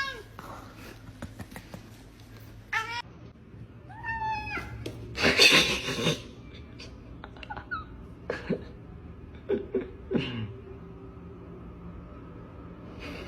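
A cat meowing several times in short calls, with a short, loud noisy burst about five seconds in.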